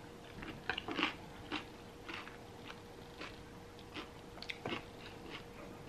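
Close-up chewing of a spoonful of smoothie bowl topped with granola: a run of small, irregular crunches and mouth clicks.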